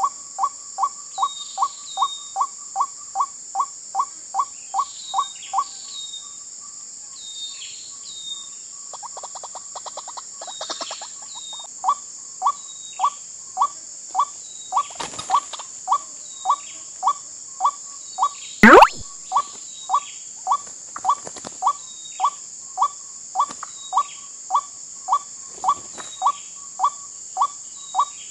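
White-breasted waterhen calls repeated in a steady series, about two a second, breaking off for several seconds in the middle before resuming, over a constant high insect drone. About 18 seconds in, a single loud, sharp rising sweep stands out above the calls.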